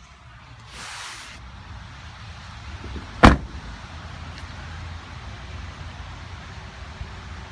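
A pickup truck door slammed shut: a single loud, sharp thud about three seconds in, after a short rush of noise about a second in.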